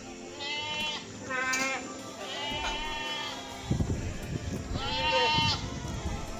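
Four wavering bleats from a goat or sheep-type animal, each half a second to a second long, over steady background music. A few low knocks come in the middle.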